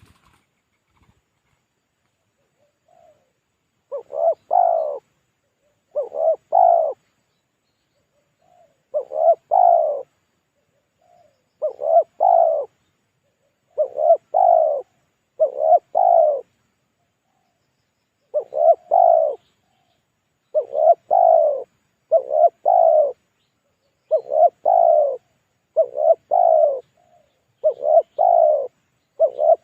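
Spotted dove (tekukur) cooing its lure call: after a near-quiet start, short coos begin about four seconds in and repeat in pairs and threes with brief pauses between groups.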